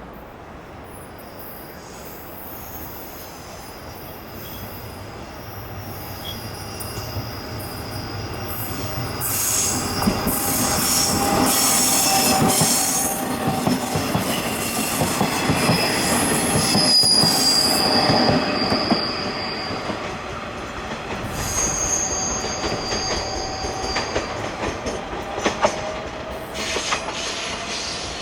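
A Taiwan Railways local commuter train passing, growing louder over several seconds and then easing off. Its wheels squeal in high, steady tones through the loudest part, with a few sharp clicks from the wheels on the rails.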